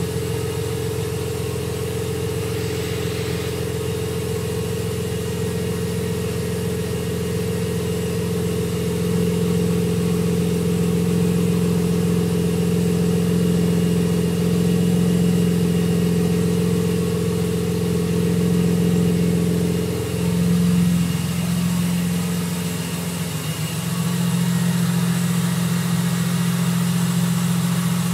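Supercharged BMW Z4 M's S54 straight-six, fitted with an ESS VT2-500 supercharger kit, idling steadily while warming up from a cold start. The idle note wavers briefly and dips about twenty seconds in, then settles again.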